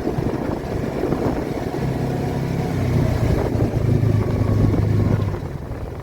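A motor vehicle's engine running at a steady pitch. It grows louder through the middle and fades near the end, over a rushing noise.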